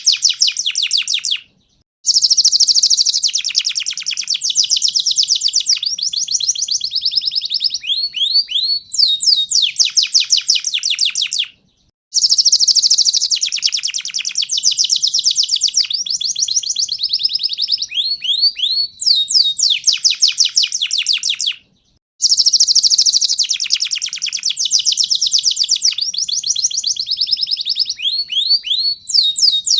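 Domestic canary (a pied 'panda' canary) singing a loud, rapid song of trills and rising chirps. The song comes in phrases about ten seconds long with brief pauses between, and the same phrase repeats three times.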